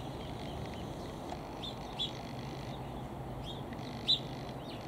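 Small songbirds giving short, high chirps every second or so, the loudest about two and four seconds in, over a steady low background rumble.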